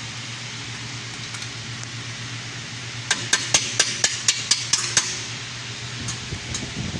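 A quick run of about nine sharp metal-on-metal taps, about four a second, near the middle, like a hammer striking a metal part during undercarriage repair. A steady low hum runs underneath.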